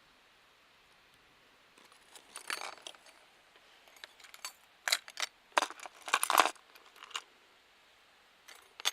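Small hard objects being handled, clinking and rattling in a few short bursts, the longest about six seconds in.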